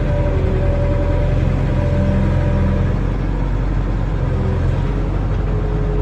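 Barge-mounted excavator's diesel engine running steadily under working load, with a whine that shifts in pitch a few times as the hydraulics take up and ease off load.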